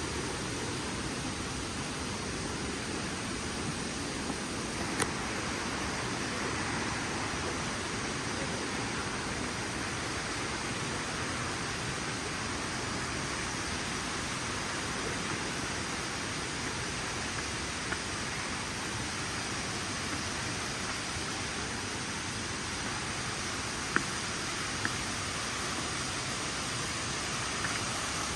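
Steady rush of falling water, an even hiss with no let-up, with a few brief clicks, the sharpest about 5 s and 24 s in.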